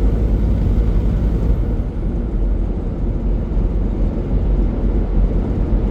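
Semi-truck driving on the highway, heard from inside the cab: a steady low drone of engine and road noise.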